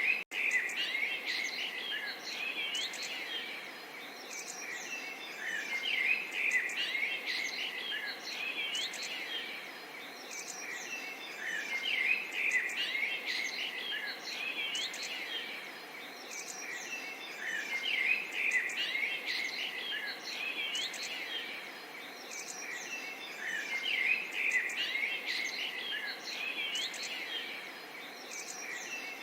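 Small songbirds chirping and twittering continuously over a soft, even murmur of babbling water, with the birdsong swelling about every six seconds.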